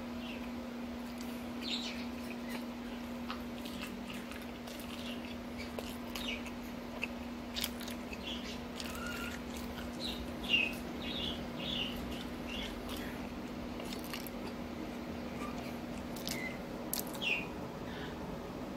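A person chewing and smacking a mouthful of hot dog close to the microphone, with scattered short wet clicks and short high squeaky chirps. A steady low hum runs underneath.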